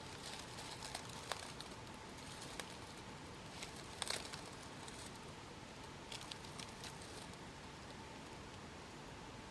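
Faint rustling and a few small clicks over a steady background hiss, with a brief cluster of rustles about four seconds in.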